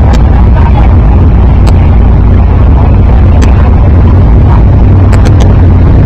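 2010 Camaro running through its SLP longtube headers and full stainless exhaust: a loud, steady, deep exhaust drone with scattered sharp pops or clicks over it, heavily overloading the recording.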